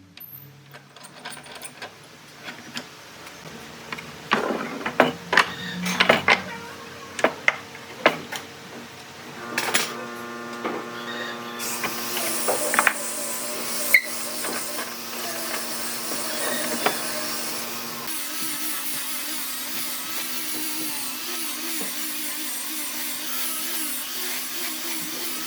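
Workshop tool sounds: a run of sharp knocks and taps, then a small power tool starts about nine seconds in and runs steadily with a hum and a high hiss.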